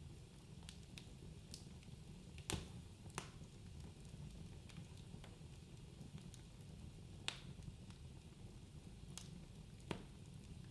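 Wood fire crackling in a fireplace: a low, steady rumble of flames with sharp pops and snaps every second or two, the loudest about two and a half seconds in, about seven seconds in and near the end.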